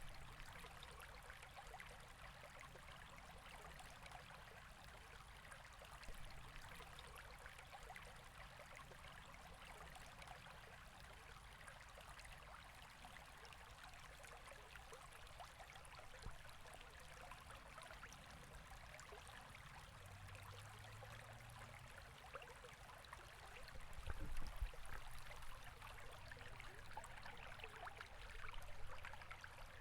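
A river flowing: a faint, steady rush of water, with a brief low rumble about three-quarters of the way through.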